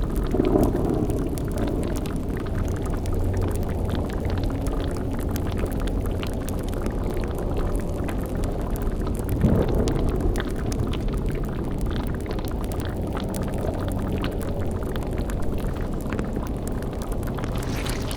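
Spooky ambience mix: a cauldron bubbling and crackling over a steady low rumbling drone, with a brief swell about half a second in and another about nine seconds in.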